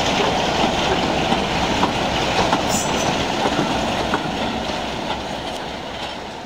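Passenger coaches of a passing train rolling along the rails, wheels clicking over rail joints with a steady rumble. The sound fades away over the last couple of seconds.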